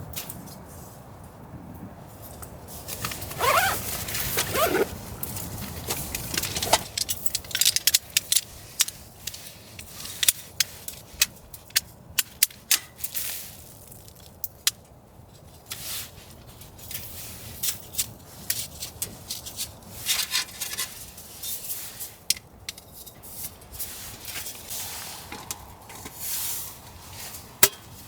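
Irregular sharp clicks and pops, typical of wood crackling as it burns in a stove, with a couple of short squeaky gliding sounds a few seconds in.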